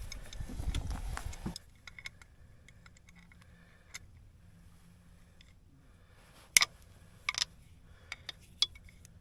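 A low rumble that cuts off abruptly after about a second and a half, then scattered sharp clicks and taps of small hard objects being handled, the loudest about six and a half seconds in.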